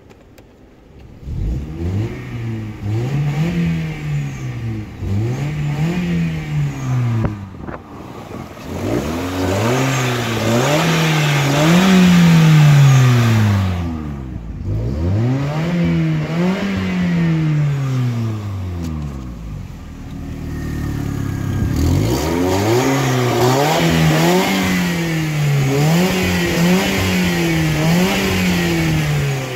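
Opel 1.2 X12XE four-cylinder petrol engine starting about a second in, then revved over and over, its pitch rising and falling about every two seconds, with brief drops back toward idle between runs of revs.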